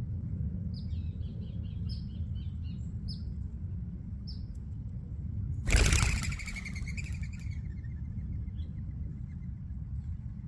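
Many small seed-eating birds chirping in short, high calls over a steady low rumble. About six seconds in, a sudden loud burst of noise fades away over a second or so.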